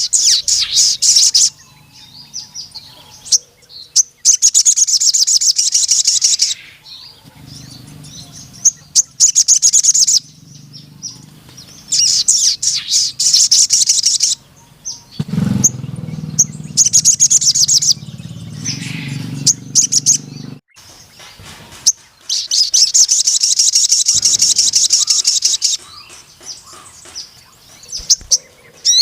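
Ruby-cheeked sunbird (sogon) singing a loud song of long, rapid, high-pitched trills, repeated in phrases of one to four seconds with short pauses between. A low hum sits underneath for several seconds in the middle.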